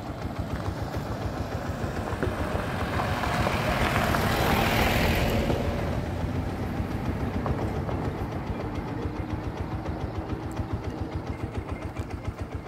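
Motorcycle engine running at low road speed with a fast, even pulse. A louder rushing noise swells and fades in the middle.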